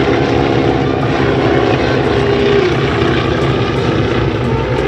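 Propeller engines of Boeing-Stearman PT-17 and N2S biplanes droning steadily overhead, a loud, continuous engine note that shifts slightly in pitch.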